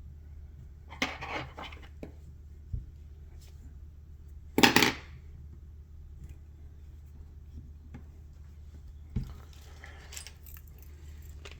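A few brief clicks, clinks and scrapes of small metal fly-tying tools being handled at the vise, the loudest a short scrape about four and a half seconds in, over a steady low hum.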